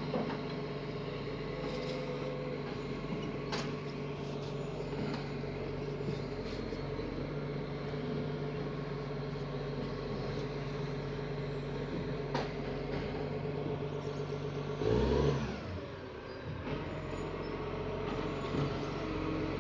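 Vehicle engine running steadily at low revs, with a brief louder swell and falling pitch about fifteen seconds in.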